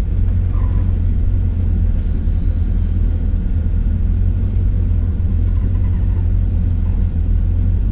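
A 1988 Ford Econoline camper van's engine running, heard from inside the cab as a steady low rumble.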